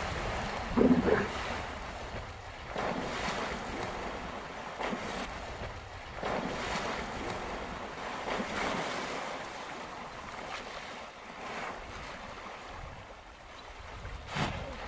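Water splashing and sloshing, with wind rumbling on the microphone, in swells every couple of seconds. A louder, lower sound about a second in.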